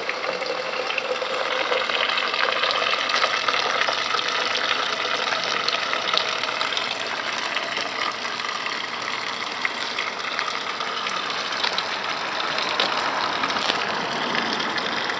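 Dog fountain sculpture's stream of water splashing steadily, like a dog peeing.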